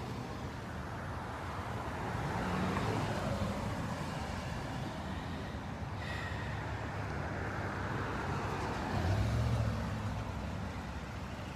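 A line of cars and trucks driving slowly past on the street, a steady run of engine and tyre noise. One vehicle's low engine rumble grows louder about nine seconds in as it passes close.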